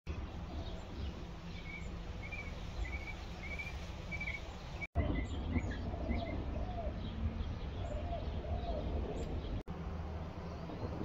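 Birds chirping over a steady low outdoor rumble: first a run of short, evenly spaced high chirps, then lower, repeated calls. The sound cuts out for an instant twice.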